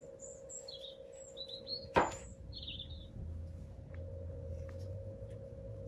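Short, high bird chirps over a steady hum, with one sharp knock about two seconds in.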